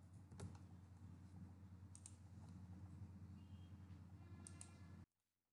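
Near silence: faint room hum with a few soft clicks, cutting off to dead silence about five seconds in.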